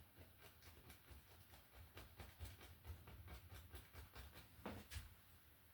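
Faint, irregular taps of a paintbrush dabbing against the canvas, about three or four a second, with a louder tap near the end, over a low steady hum.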